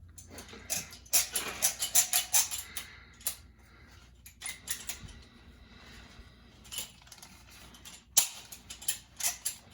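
Caulking gun being worked: a run of sharp metallic clicks and clacks from the trigger and plunger rod, in one burst about a second in and another past eight seconds. The gun is failing to push out sealant, its drive spring worn and its rod scratched up.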